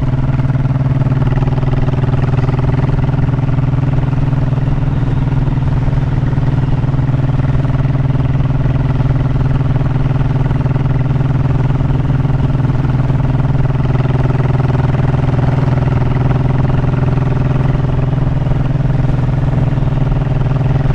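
Honda motorcycle engine running at a steady cruise under way, a constant low drone with an even pitch.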